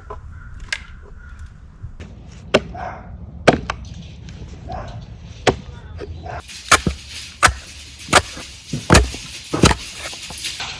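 Sledgehammer blows ringing on a steel splitting wedge driven into an oak round, about nine strikes, coming faster in the second half.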